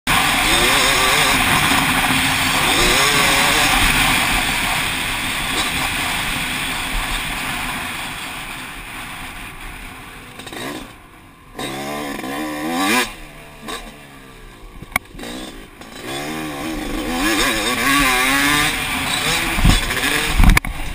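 Yamaha YZ motocross bike engine revving and easing off as it is ridden over a dirt track, its pitch rising and falling repeatedly, under heavy wind rush for the first half. There are a few heavy thumps near the end.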